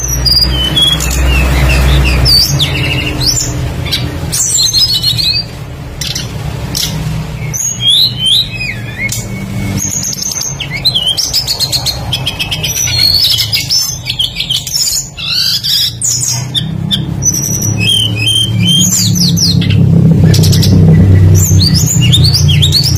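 Tledekan songbird singing in fast, varied bursts of chirps, whistles and trills that include mimicked calls of other birds, over a low steady hum that gets louder near the end.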